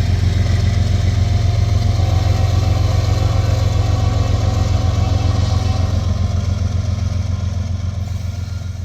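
Diesel freight locomotives running, a deep steady engine throb that slowly fades toward the end.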